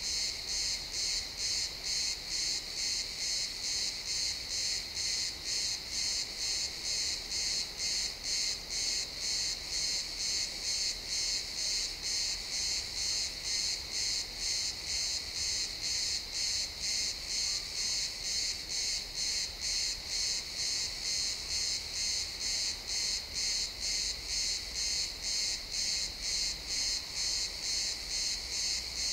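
A chorus of crickets chirping continuously, a high shrill trill that pulses in an even rhythm about twice a second.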